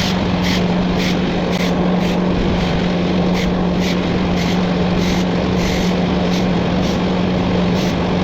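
Small gasoline wood chipper running steadily at full speed: a constant hum under even mechanical noise, with short sharp ticks about twice a second.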